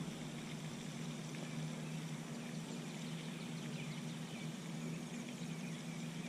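Quiet outdoor ambience: a steady low hum under faint, repeated small-bird chirps.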